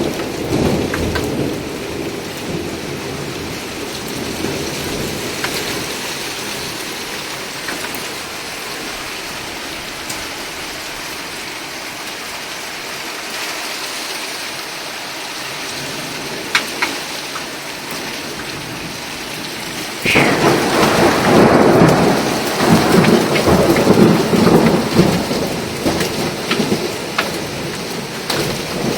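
Heavy downpour hissing steadily. A low thunder rumble fades away at the start, and about two-thirds of the way through a sudden thunderclap breaks and rumbles on loudly for several seconds.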